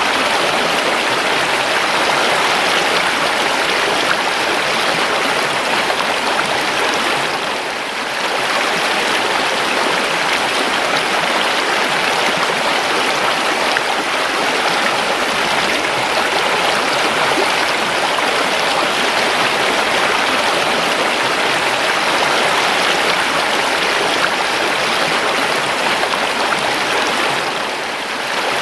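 A river flowing, a steady rushing of water that eases briefly twice, about a quarter of the way in and near the end.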